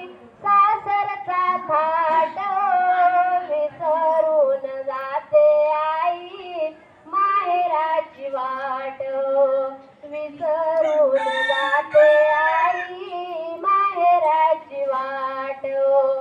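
Female voices singing a traditional Marathi wedding song in long, held phrases, with a second, lower line sounding beneath the melody.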